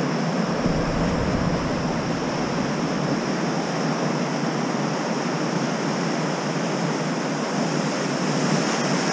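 Ocean surf washing in steadily, with some wind rumbling on the microphone.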